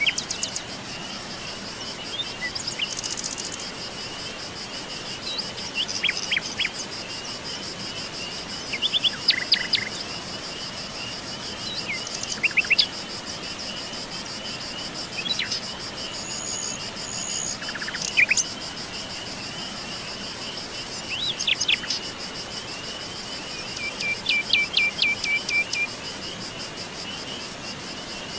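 Wild birds chirping in short scattered calls over a continuous high-pitched insect trill, with a quick run of repeated notes near the end.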